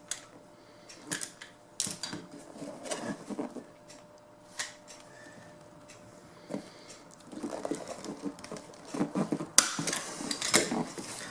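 Handling noises on a workbench: a series of sharp clicks and knocks with bursts of rustling, coming thicker and louder near the end.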